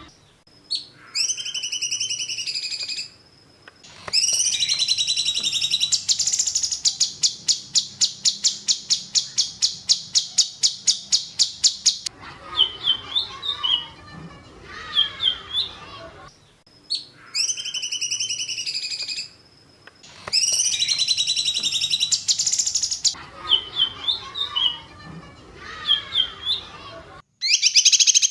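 Recorded songbird song used as a masteran (a training track for cage birds): loud, high, sharp phrases and a long rapid trill of about five notes a second. The same passage plays again partway through, as a loop.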